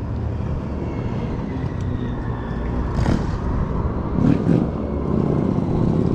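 Nearby motor vehicle engines running, a steady low rumble with a couple of brief swells as traffic moves past.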